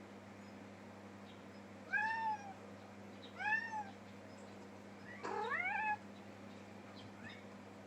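A cat meowing three times: two short arched meows about a second and a half apart, then a longer meow that rises in pitch.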